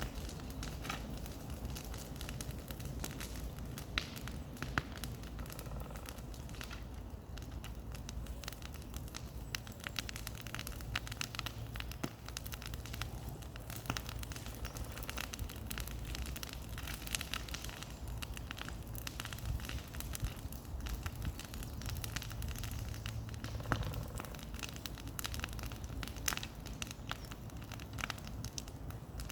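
Bonfire crackling, with many sharp pops at irregular intervals.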